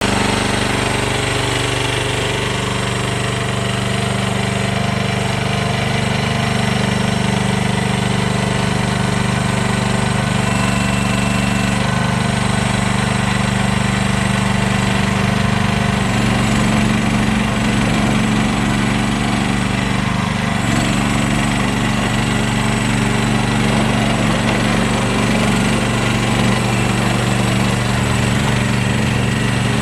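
Lanch SSL60 mini skid steer loader's engine running steadily, its tone shifting slightly a little past halfway.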